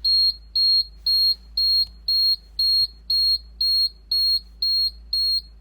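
Bus dashboard warning beeper sounding steadily, a high beep about twice a second, with the key on before the engine is cranked. A steady low hum runs underneath.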